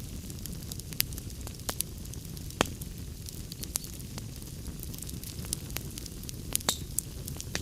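Wood fire crackling in a fireplace: a steady low rumble of burning logs with irregular sharp pops and snaps, a few louder ones about a second in, near the middle and near the end.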